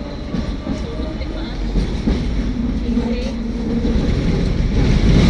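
Hong Kong double-decker electric tram running on its street tracks, a steady low rumble and rattle that grows a little louder near the end.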